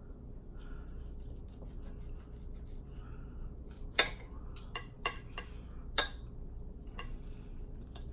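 Cutlery clinking and scraping on a plate during a meal, a string of sharp clinks, the loudest about halfway through and again a couple of seconds later.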